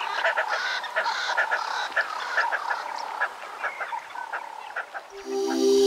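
Frog chorus: many short calls overlapping over a steady trilling tone. Music comes in near the end.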